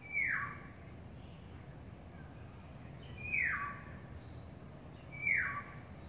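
A yellow bird calling three times, each call a short note sliding down in pitch; the first comes at once, the other two about three seconds and two seconds later. A steady low hum runs underneath.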